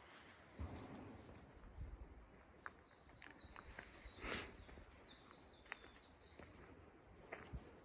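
Faint outdoor ambience with small birds chirping in runs of quick falling notes, plus a few soft clicks and a brief rustle about four seconds in.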